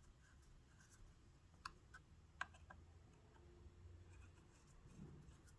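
Near silence, with a few faint, sharp clicks from small sewing-machine parts being handled and fitted, mostly around the middle.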